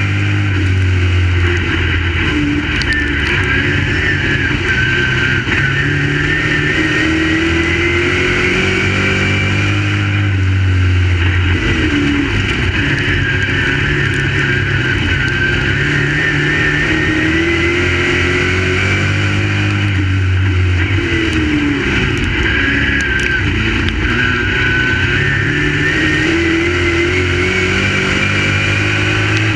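Crate late model race car's V8 running at racing speed, its engine pitch climbing and then dropping away in a repeating cycle about every ten seconds, as on laps of a short oval track.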